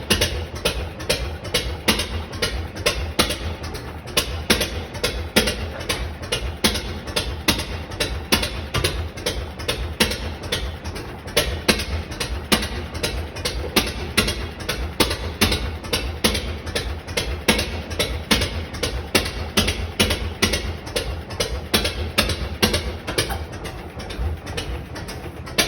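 1926 Lister X-type single-cylinder stationary engine running steadily, with a regular beat of about three strokes a second over a low rumble.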